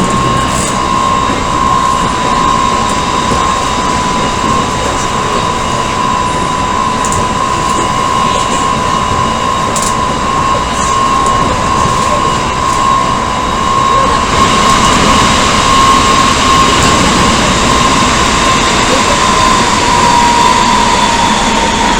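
Odakyu 1000 series electric train heard from inside the car while running: a steady high whine from its Mitsubishi GTO inverter traction motors over wheel and rail rumble. The whine drops slightly in pitch near the end, and the rolling noise grows louder about two thirds of the way through.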